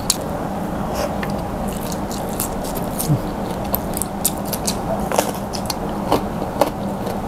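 A person chewing crispy fried fish with sambal eaten by hand, with many short crunching clicks, over a steady low hum.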